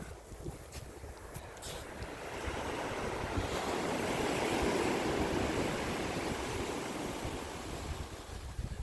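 Sea waves washing ashore: one wave swells up about two seconds in, is loudest near the middle, and dies away near the end.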